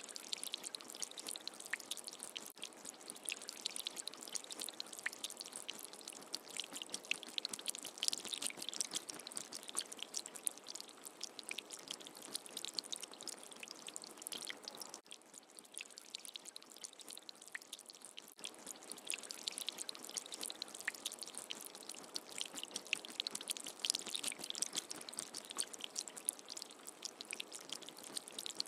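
Steady rain falling: a dense patter of many small drops, with no thunder. The sound dips briefly about halfway through, then carries on.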